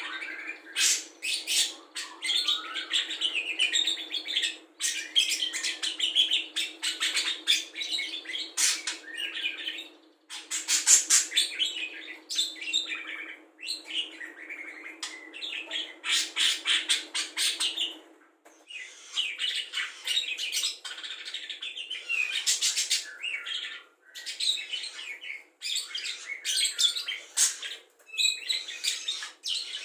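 Budgerigar singing a long, rapid chattering warble of fast trills, chirps and clicks with brief pauses, its song filled in with learned calls of other songbirds.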